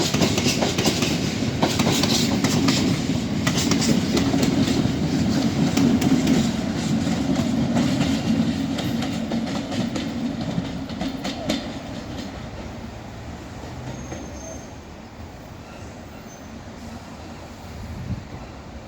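Class 60 diesel-hauled freight train rolling past. Its wagon wheels clatter over the rail joints with a steady low rumble. The sound fades away over the last several seconds as the train draws off.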